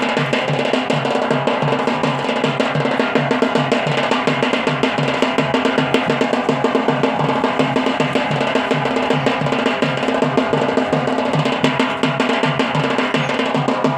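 Yemeni bara'a dance drumming: drums beating a fast, even rhythm without a break.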